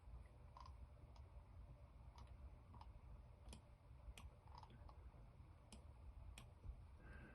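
Near silence with faint, irregular clicks of a computer mouse, about a dozen over several seconds, over a low hum.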